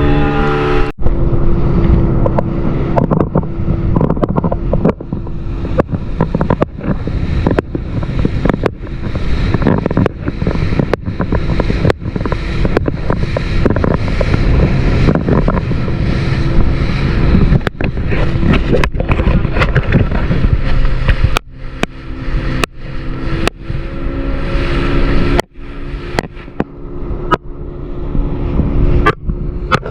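Boat engine running steadily under way, with the hull slamming on the waves in sharp knocks about once a second.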